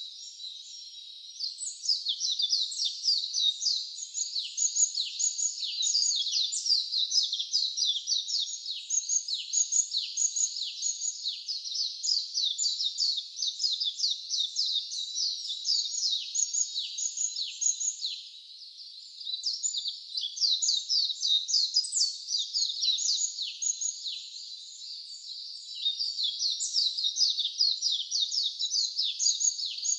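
Wild birds chirping, a dense run of quick, high, falling notes that goes on almost without a break and thins out briefly about eighteen and twenty-four seconds in.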